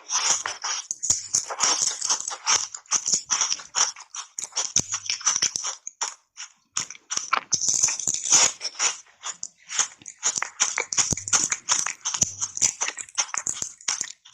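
Crunchy button ice coated in matcha powder being bitten and chewed: a dense, irregular run of close crunches and crackles, with a short lull about six seconds in.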